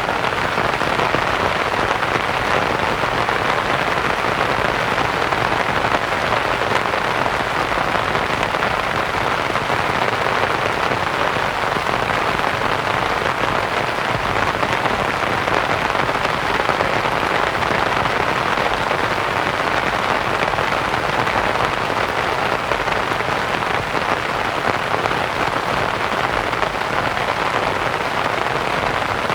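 Steady rain pattering on a canvas tent, blended with soft white noise. It holds an even, unbroken hiss with no distinct drops or gusts standing out.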